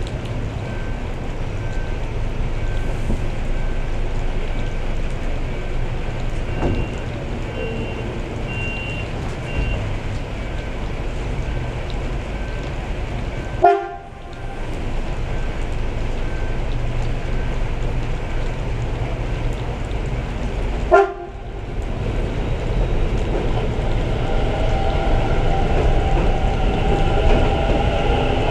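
Sarmiento line commuter train at a station platform: steady rumble of rail traffic in the rain, with a train coming in and growing louder near the end. The sound cuts out briefly twice in the middle.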